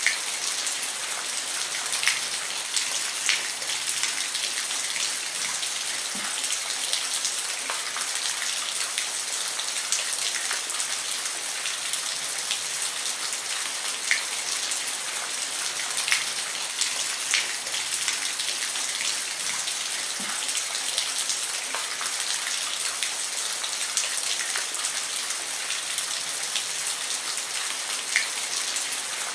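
Steady rain falling on a roof: an even hiss with scattered individual drops ticking sharply on the surface.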